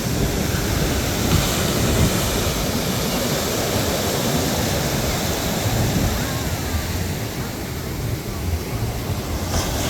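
Ocean surf washing on a beach: a steady rush of noise, with wind buffeting the microphone.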